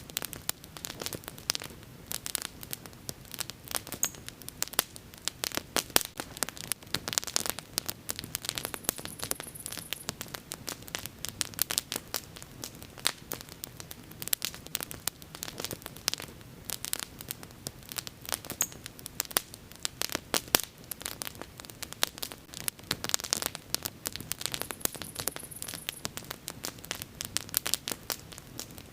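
Wood bonfire burning, crackling throughout with many irregular sharp pops and snaps over a faint hiss of the flames.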